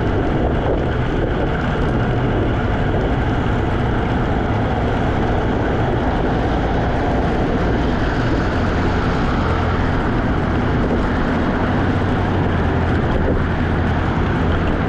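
Steady wind rumble on the camera microphone and road noise from riding a Segway Ninebot electric scooter.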